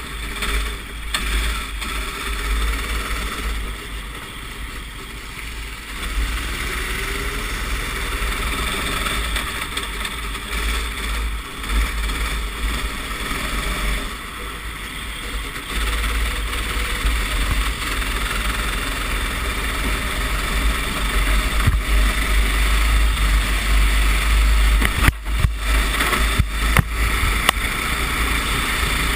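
Racing kart engine running under load, heard from the onboard camera, with heavy wind rumble on the microphone.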